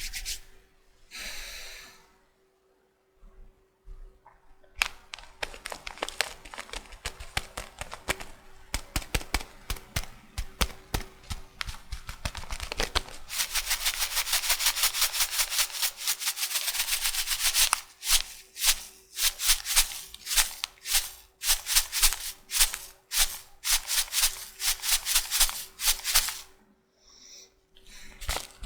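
Tea packaging handled close to the microphone: rapid sharp clicks from about five seconds in, a steady dense crinkling in the middle, then separate clicks again. It is preceded by a brief soft rubbing of a shaving brush at the start.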